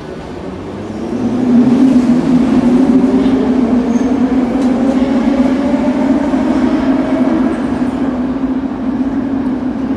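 Minsk metro 'Nomernoy' (81-717/714) train pulling away, its traction motors whining with a steady low hum and higher tones that slowly rise in pitch as it gathers speed; it grows loud about a second in.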